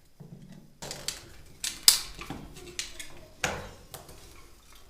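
Hand pipe cutter working through plastic water pipe: a series of sharp clicks and snaps, about five over a few seconds, as a short piece is cut off.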